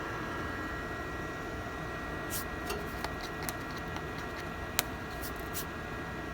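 Steady whir of a delta 3D printer's cooling fans with a faint high whine in it, and a handful of sharp clicks in the middle seconds, the loudest about five seconds in.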